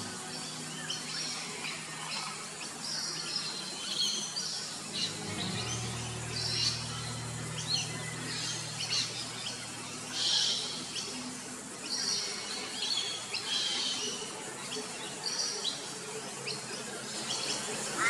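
Birds chirping: many short, high calls repeat throughout. A low steady hum joins about five seconds in.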